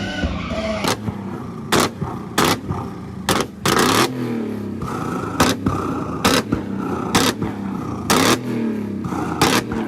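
A car engine revved in blips, with about a dozen loud sharp cracks at irregular intervals and the revs falling away after several of them, like exhaust pops and bangs.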